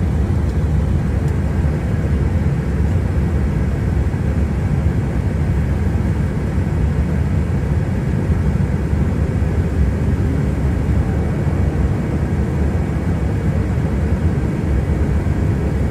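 Steady cockpit noise of an airliner in flight on approach: a constant, deep rush of airflow and engine noise that holds level without any change in pitch.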